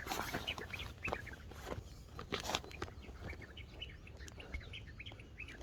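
Birds chirping, many short overlapping calls.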